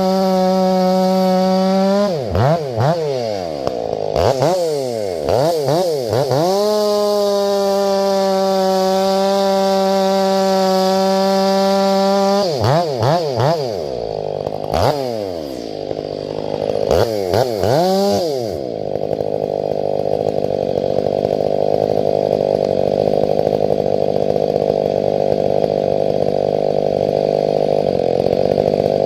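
Ported Stihl 500i fuel-injected two-stroke chainsaw running at high revs while bucking grand fir. Several times the engine note drops sharply and climbs again as the throttle is let off and opened back up. For the last ten seconds or so it runs steadily with a rougher, noisier sound.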